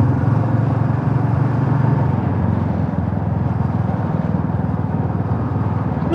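Motorcycle engine running steadily under way, with road noise.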